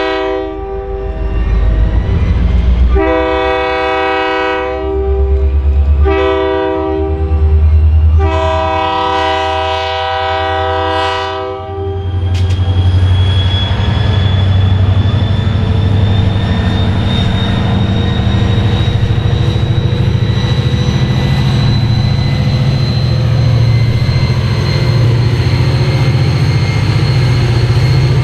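Diesel locomotive air horn blowing: the end of one blast, then long, short, long, the closing part of the standard grade-crossing signal. After about twelve seconds the horn stops, and the locomotive's engine runs heavily under the train with a thin whine slowly rising in pitch.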